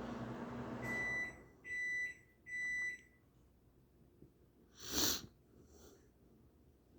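An appliance's steady hum cuts off about a second in and an electronic beeper sounds three times at one high pitch, the end-of-cycle signal of a kitchen appliance such as a microwave oven. About two seconds later comes a single short, loud breathy burst.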